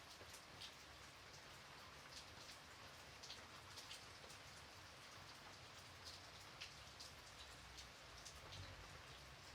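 Faint, steady light rain: an even hiss of rainfall with many separate drops ticking close by at irregular moments.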